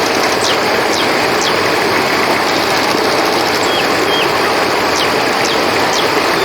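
Steady rush of flowing river water with a continuous high cricket trill over it. Short, high chirps come in small groups several times.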